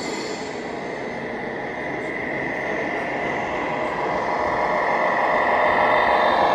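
Radio-controlled scale truck driving close by, a steady mechanical running sound with a high whine, growing louder toward the end.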